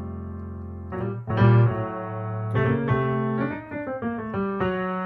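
Piano playing jazz chords. A held chord dies away, then new chords are struck from about a second in, in a flat-two minor upper-structure turnaround.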